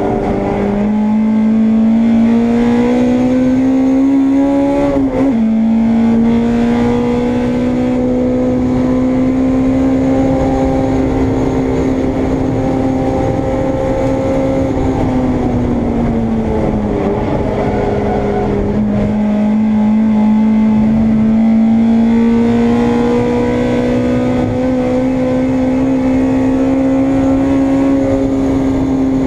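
Honda Integra race car's engine, heard onboard, pulling hard under full throttle. About five seconds in the pitch drops sharply on an upshift, then climbs slowly on a long pull. Around fifteen seconds the pitch falls as the car slows, then it climbs again under power.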